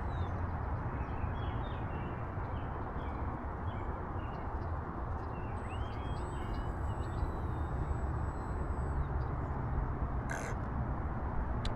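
Wind buffeting the microphone with a steady low rumble, with faint short bird chirps over it.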